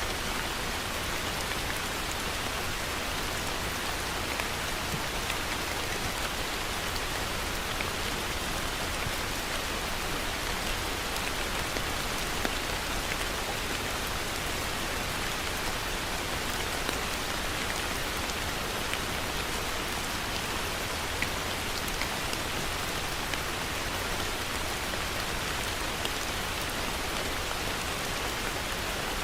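Heavy rain falling steadily, an even dense hiss with a few louder single drop hits standing out now and then.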